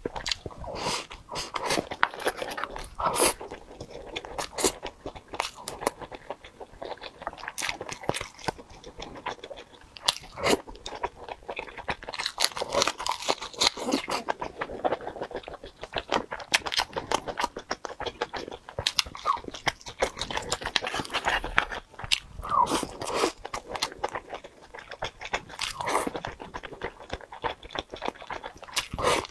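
Close-miked eating sounds: chewing and biting into red-braised pork belly, braised eggs and rice, with many sharp wet mouth clicks.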